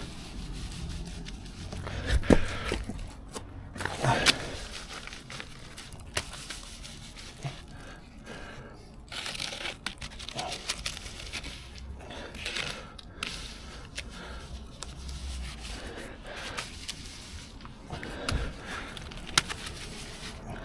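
Irregular scraping and crunching of tools working wet concrete into the base, with a few sharper knocks about two, four and eighteen seconds in.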